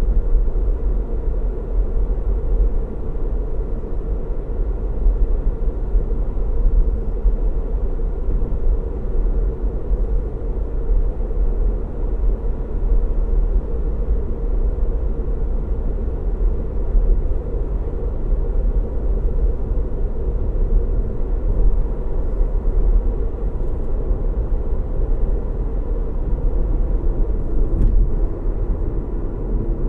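Steady road noise of a car driving at a constant speed, a deep, even rumble of tyres and engine with no changes.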